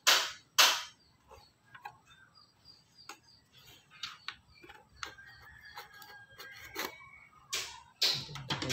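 Short, loud bird calls at the start, the last of a repeated series, and again from about three-quarters of the way in. In between, faint scattered clicks and taps from a computer motherboard being handled in its case.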